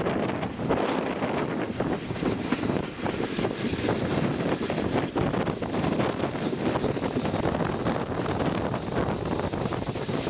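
Wind buffeting the microphone at an open carriage window over the steady rumble of a moving train, with short knocks and clatter from the running gear.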